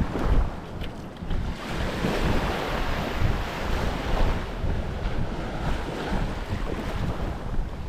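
Wind buffeting the microphone with an uneven, gusty rumble, over small waves washing onto a sandy beach.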